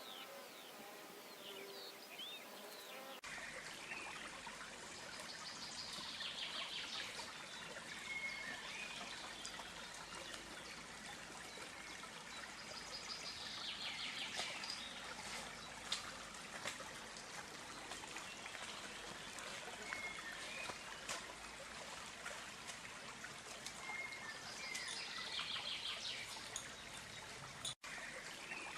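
For the first three seconds an insect buzzes amid bird chirps, then the sound cuts to a trickling stream with birds singing over it in repeated phrases and short whistles. A brief dropout comes near the end.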